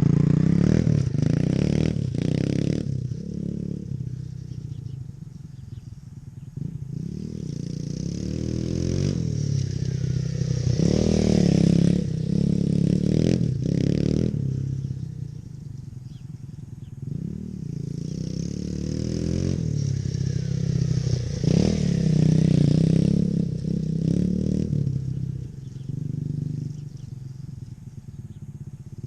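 Dirt bike engine revving up and easing off over and over as the bike rides around, growing louder and fading in repeated waves.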